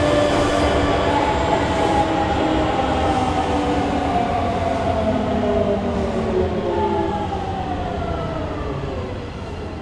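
JR Shikoku limited express train running through the station: a whine of several tones that slowly falls in pitch over a rumbling wheel-and-rail noise, fading gradually.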